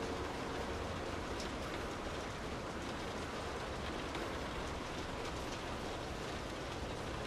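Steady rain falling as an even hiss, with scattered faint ticks of individual drops.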